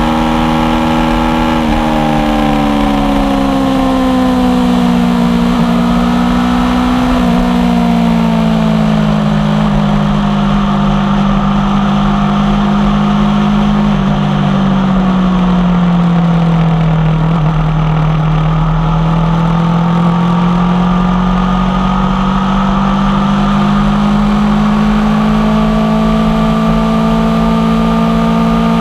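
A 2016 Aprilia Tuono V4 1100 Factory's V4 engine running under way through an unbaffled Tech 1 carbon exhaust. The engine note drops in two steps early on, sinks slowly to its lowest point about halfway through, then climbs gradually again. A steady rumble of wind and road noise lies under it.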